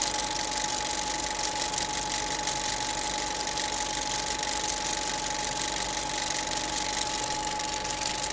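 Steady engine noise: a constant rush with a steady high whine.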